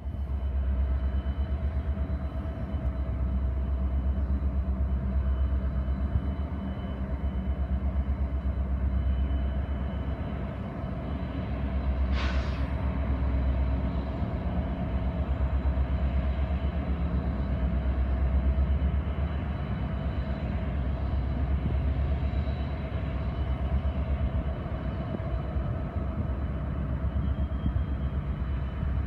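Steady low rumble of a freight train, with a few steady mechanical tones from diesel locomotive engines. A brief high-pitched squeal comes about twelve seconds in.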